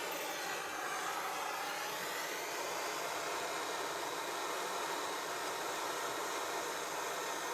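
Gas blow lamp flame burning with a steady hiss while heating a silver-soldered joint.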